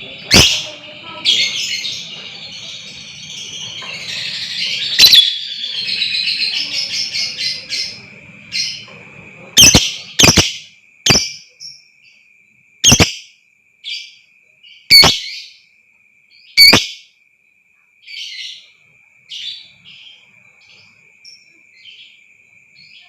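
Lovebirds calling: a burst of busy chattering about four to eight seconds in, then sharp, loud single shrieks every second or two that grow fainter near the end. A thin steady high tone runs underneath.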